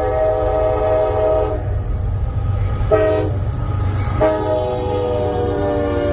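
A CSX freight locomotive's air horn sounds a chord of several notes over the low rumble of the train. One long blast ends about a second and a half in, a short blast comes near three seconds, and a long blast starts about four seconds in and holds. This is the end of the long-long-short-long grade-crossing warning.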